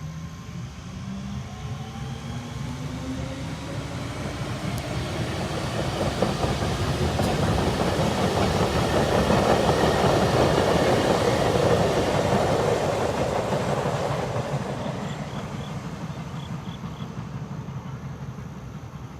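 MTR Disneyland Resort Line M-Train pulling away and passing close by: the traction motors' whine rises steadily in pitch as it gathers speed, and the running noise swells to a peak about halfway through, then fades as it moves off.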